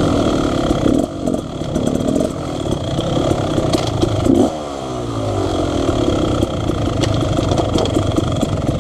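Dirt bike engine running and revving, its pitch falling away about four and a half seconds in, then running steadier.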